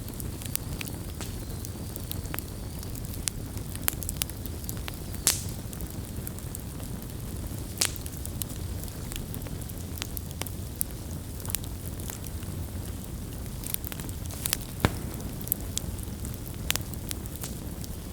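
Wood campfire burning, with a steady low rush of flame and irregular sharp crackles and pops from the burning wood; a few pops stand out louder, about five, eight and fifteen seconds in.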